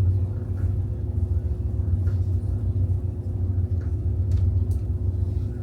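Steady low engine drone with a constant hum above it, unchanging throughout.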